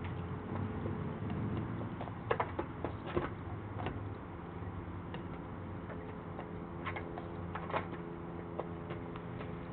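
Irregular light taps and clicks, a few at a time, over a faint steady low hum.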